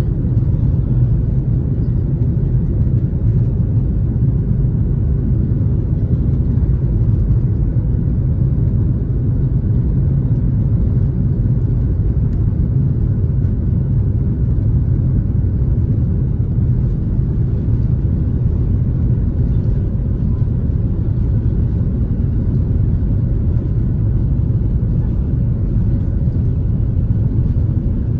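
Boeing 737-800 jet engines giving a steady, unbroken low rumble.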